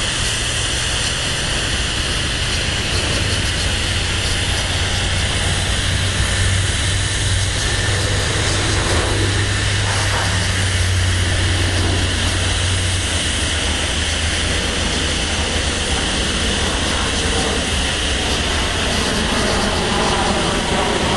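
BNSF freight train passing: the diesel locomotives' steady low engine drone fades out a little over halfway through, leaving the continuous rumble of freight cars rolling on the rails.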